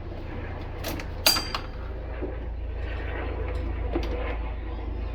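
A few short metallic clinks and knocks from tools and engine parts being handled, the sharpest about a second in with a brief ring, over a steady low hum.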